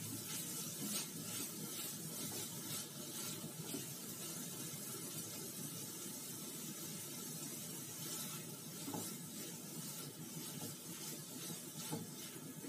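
Paneer and mushroom filling sizzling gently in a non-stick pan while a spatula stirs through it, with occasional soft scrapes against the pan.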